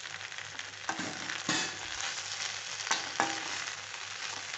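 Chicken Manchurian (fried chicken pieces in a thick sauce) sizzling in a steel kadai while a perforated steel slotted spoon stirs it, with about four short scrapes of the spoon against the pan.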